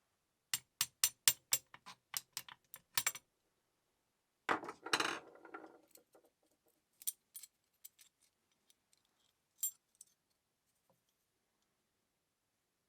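Small metal parts and tools clinking as they are handled: a quick run of about ten sharp clicks, then a short clattering rattle, then a few scattered clicks.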